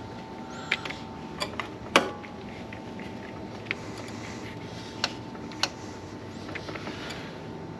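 Scattered sharp clicks and knocks of tools and metal parts as a serpentine belt is worked back onto the pulleys of a 6.7 litre Cummins diesel engine. There are about seven of them, the loudest about two seconds in, over a faint steady hum.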